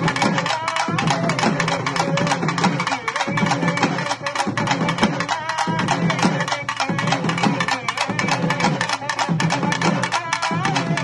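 Urumi melam ensemble playing a Murugan devotional song: fast, dense drumming with a wavering melodic line above it.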